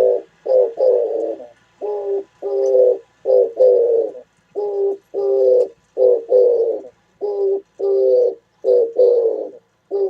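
Oriental turtle dove singing: a steady series of low, hoarse coos repeated in phrases, many notes coming in close pairs with short gaps between.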